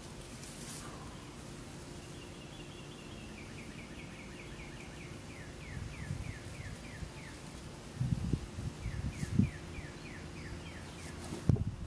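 A bird repeating quick, short falling chirps at about four a second, in two runs, the second starting about nine seconds in. Under it is a steady low rumble of wind and rustling, with a few louder low thumps near the end.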